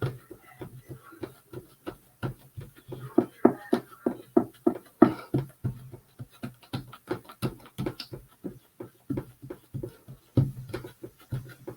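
A paint sponge dabbing paint onto a wooden birdhouse to distress it: quick, irregular soft taps, about four a second.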